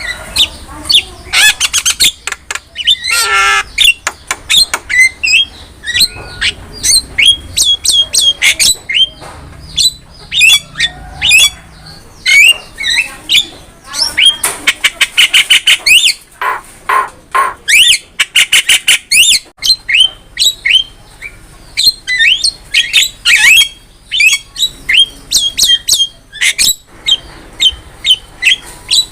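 Javan myna (jalak kebo) in full song: a fast, unbroken string of harsh squawks, chattering notes and sharp rising whistles.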